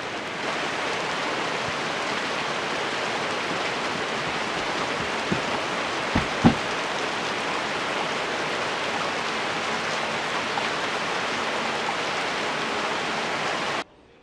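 Steady, heavy rain beating down, with a few sharp taps about five to six and a half seconds in. The sound cuts off suddenly near the end.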